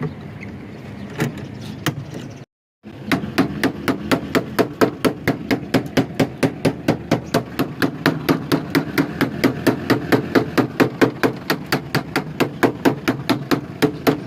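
Rapid, even hammering or tapping strikes, about four to five a second, starting about three seconds in after a short dropout.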